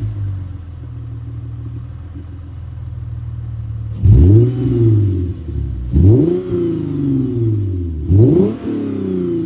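Lexus GS350's 3.5-litre V6 through an aftermarket exhaust of two Paradox stainless mufflers and a Vibrant resonator in place of the factory one. It idles steadily, then is revved three times about two seconds apart, each rev rising and dropping back to idle.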